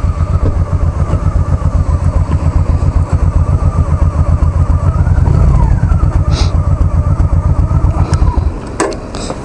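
2005 Honda Shadow's V-twin engine idling with a lumpy, pulsing beat, rising briefly in pitch about five seconds in, then shut off about eight and a half seconds in, followed by a sharp click.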